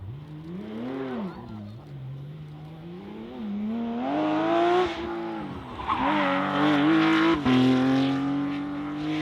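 Rally car engine accelerating hard. Its note climbs, then drops at each gear change several times, and grows louder from about four seconds in as the car comes closer.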